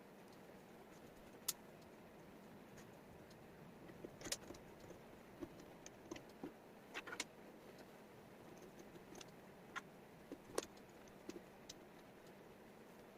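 Wooden jigsaw puzzle pieces clicking and tapping as they are handled and set down on the table: a dozen or so short, sharp clicks at irregular intervals over a faint hiss, some in quick pairs.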